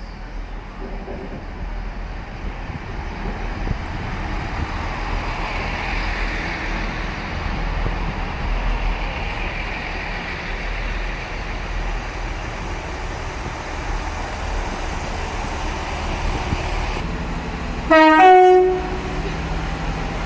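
Train running with a steady rumble, then, near the end, a short, loud two-note horn, the second note higher than the first.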